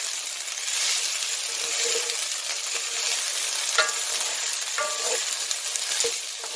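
Diced onion and potato sizzling as they brown in a cast iron pan, stirred with a wooden spoon. The spoon knocks against the pan a few times in the second half, each knock with a short metallic ring.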